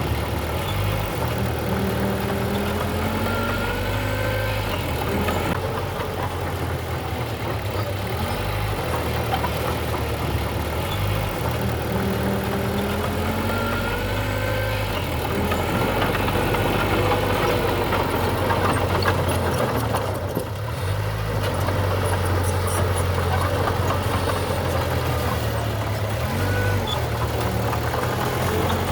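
Diesel engine of heavy construction machinery running continuously, its note shifting every few seconds as the load changes, with a couple of brief rising whines.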